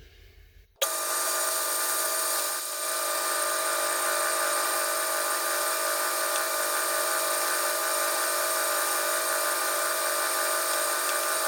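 Metal lathe running, a steady machine whine made of several fixed pitches, starting suddenly about a second in.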